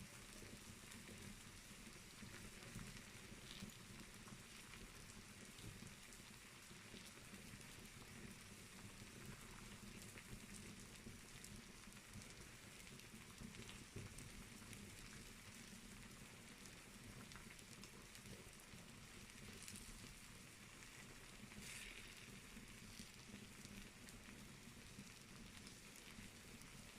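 Fire in a fireplace crackling faintly: a soft steady hiss with occasional small pops.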